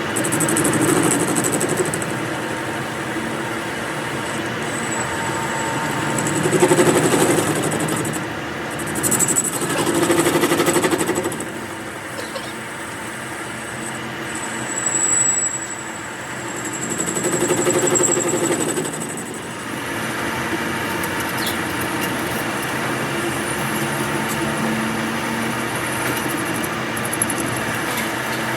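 Workshop machinery running continuously, with several louder swells and a thin high whine in stretches.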